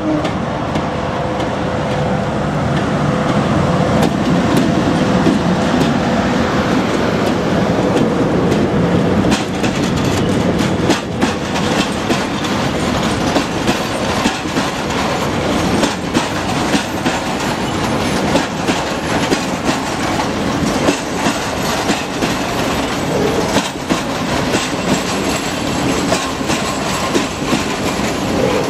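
PKP ET42 electric locomotive passing close by with a low hum and a steady tone that fade after several seconds. A long train of loaded open coal wagons follows, its wheels clacking over the rail joints in many irregular clicks.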